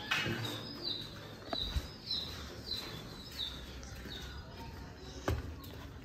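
A bird chirping over and over, short falling chirps about every half second that fade toward the end, with two sharp knocks, one about a second and a half in and one near the end.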